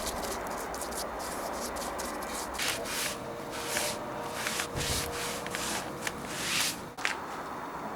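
Repeated hand strokes rubbing over a wooden surface, short irregular strokes with a few longer sweeps, ending with a sudden break about seven seconds in.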